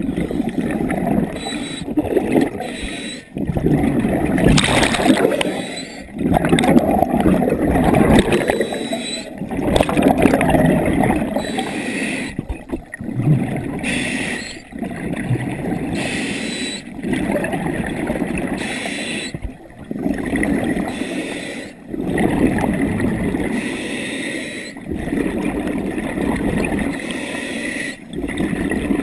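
Scuba regulator breathing heard underwater: bursts of gurgling exhaust bubbles alternating with breaths, repeating in a steady cycle every few seconds.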